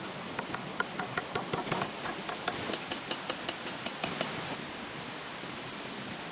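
A rapid run of sharp, light taps or clicks, about five a second, stopping about four seconds in, over a steady hiss.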